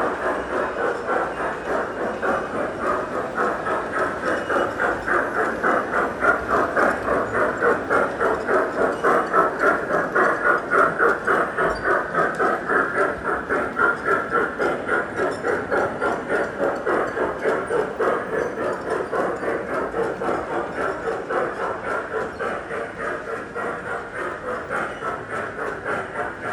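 Model train running along its track, its wheels clicking rapidly and evenly over the rail joints. The sound grows louder toward the middle, then slowly fades as the train moves away.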